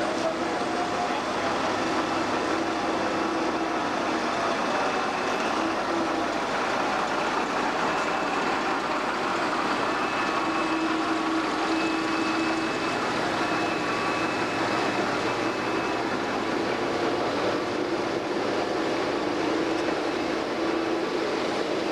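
Narrow-gauge train passing slowly at close range: the Lxd2 diesel locomotive running as it goes by, then its carriages rolling past on the rails. Faint thin squeals come and go throughout.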